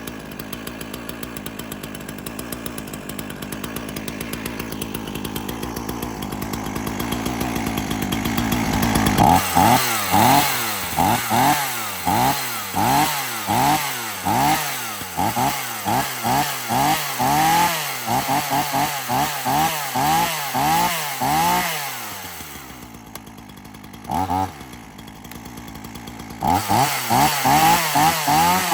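Ryobi RY3716 two-stroke chainsaw running after a cold start: the engine speed creeps up from idle, then it is revved in quick repeated throttle blips, roughly three every two seconds. It drops back to idle with a single blip, then revs again near the end.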